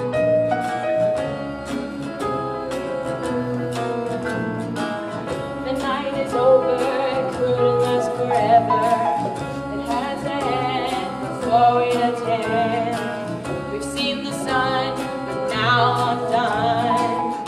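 A singer holds long notes with vibrato over steady piano accompaniment, part of a song from a live stage musical.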